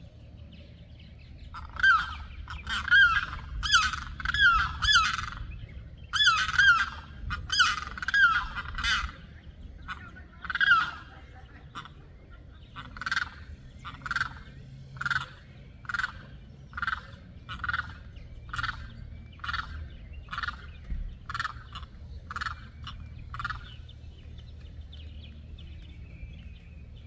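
Limpkins calling loudly and repeatedly with high, wailing screams. The calls come first as a rapid, overlapping burst, then settle into a steady series of single calls, a little more than one a second, that stops a few seconds before the end. The birds are calling during a squabble that the watchers take for a mating dance or a territory fight.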